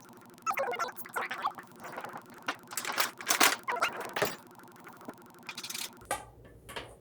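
Irregular scraping, tapping and clicking of hands and utensils working sticky oat-and-molasses cookie dough into balls and setting them on a baking pan. The sounds thin out after about six seconds.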